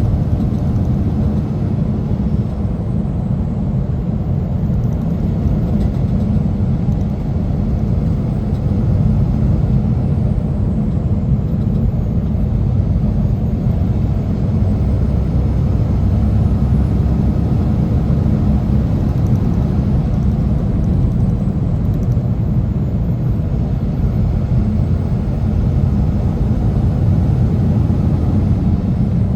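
Semi truck driving on the road, a steady low rumble of engine and road noise heard from the cab.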